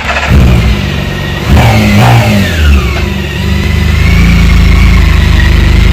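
Motorcycle engine revving and accelerating, the revs rising and falling a couple of times and then holding steady and loud.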